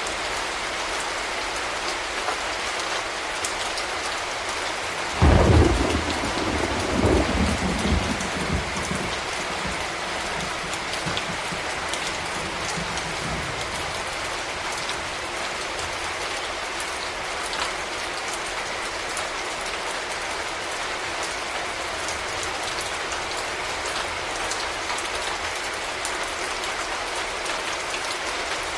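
Steady rain falling. About five seconds in, a sudden clap of thunder, then a low rumble that rolls on and fades over several seconds.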